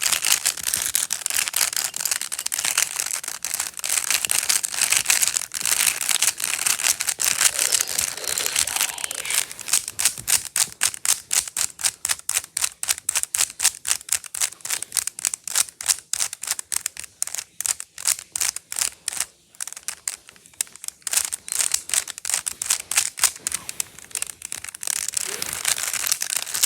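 A long run of crisp, sharp clicks and crackling: dense and almost continuous at first, then separate rapid clicks several times a second through the middle, growing dense again near the end.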